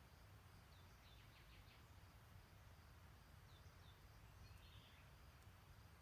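Faint birdsong: a few short, high chirps and a brief twittering phrase over a low, steady rumble of outdoor background noise.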